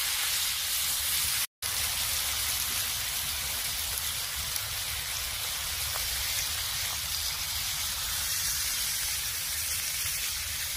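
Pork belly and aged kimchi sizzling steadily on a hot cast-iron pot-lid griddle over a wood fire, a dense even hiss that breaks off for an instant about a second and a half in.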